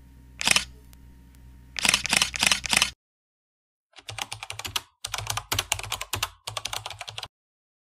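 Keyboard-typing sound effect: several quick runs of rapid clicks, starting about four seconds in, after a short silence. Before the silence there are a few brief scuffing noise bursts.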